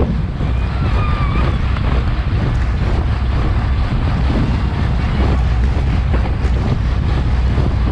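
Wind rushing and rumbling over an action camera's microphone as the bicycle moves at race speed.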